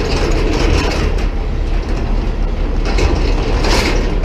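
Tow truck engine running steadily, with a continuous rattly mechanical clatter over its low rumble.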